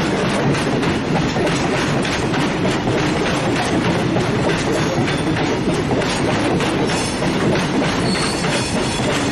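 Freight train carrying lorries running on the rails: a steady rumble of steel wheels with repeated clickety-clack over the rail joints, and a faint wheel squeal about eight seconds in.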